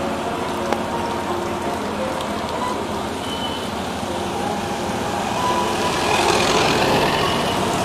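Heavy rain pouring down onto a flooded road, a steady hiss that grows louder about five and a half seconds in.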